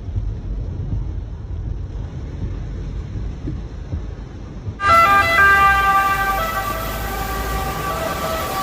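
Low rumbling noise, then, about five seconds in, an abrupt cut to a loud, steady emergency-vehicle siren with several pitches sounding together over road noise.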